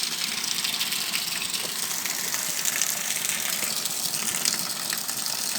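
Steady heavy rain falling, an even hiss dotted with many small splashes of drops.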